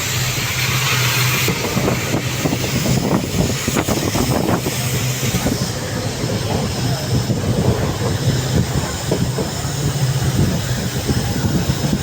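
Express passenger train running at speed, its wheels clattering over rail joints in quick irregular clicks over a steady low drone, with a hiss in the first second or so.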